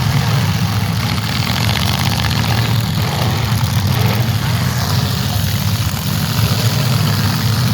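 Engines of demolition derby cars running, a steady loud low rumble.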